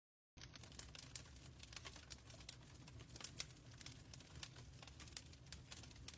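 Wood fire crackling in a fireplace, with many sharp pops and snaps over a low steady rumble of the flames. It cuts in abruptly from dead silence a moment after the start.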